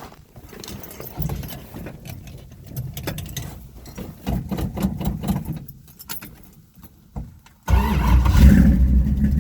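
Cold start of a 1968 Chrysler 340 small-block V8 with a big cam and headers: after several seconds of low, uneven sound from cranking, the engine catches suddenly about three quarters of the way through and runs loud. The choke is not yet set up right, by the owner's account.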